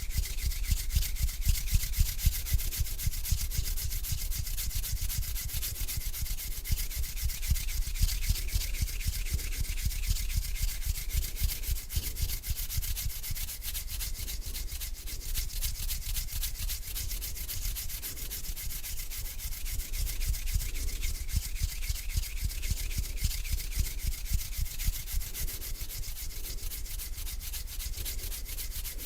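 Hands rubbing together slowly and continuously, a steady dry scratchy hiss of skin on skin.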